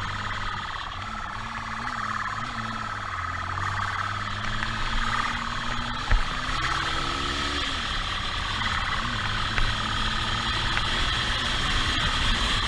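Car driving, with engine hum and road noise whose pitch slowly rises and falls. There is one sharp knock about six seconds in and a smaller one near ten seconds.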